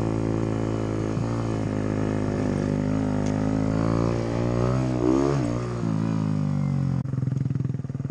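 Motorcycle engine running under way, its pitch rising and falling with the throttle. About seven seconds in it changes suddenly to a lower, pulsing note.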